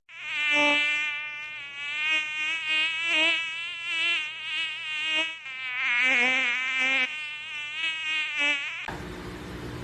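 A parrot making a long, buzzy call with a wavering pitch, lasting almost nine seconds, then a sudden cut to steady background hiss and hum near the end.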